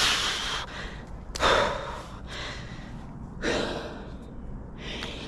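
A person breathing hard, four heavy breaths about a second and a half apart.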